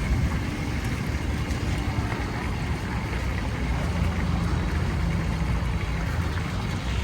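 Steady low motor rumble, with a faint steady hum joining about halfway through.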